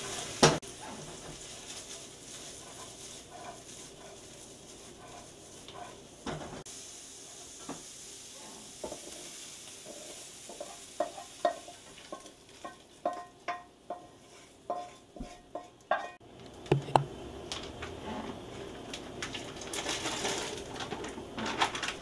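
Chopped peppers and onions sizzling as they hit a hot wok, with a sharp knock about half a second in. Later a wooden spoon clacks and scrapes against the wok many times as the vegetables are pushed out into a stainless steel stockpot, and sizzling returns near the end.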